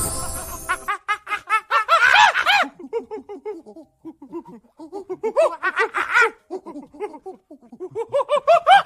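A rapid run of short, laugh-like calls, each rising and falling in pitch, coming in several bouts of many calls a second, after a brief whoosh at the start.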